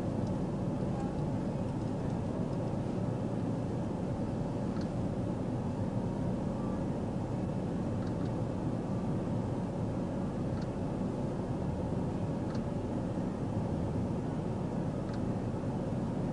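Steady low rumble and hiss of a vehicle running at idle, with a few faint ticks scattered through it.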